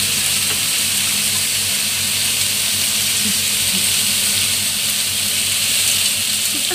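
Chicken wings sizzling as they fry in oil in a frying pan, a steady high hiss.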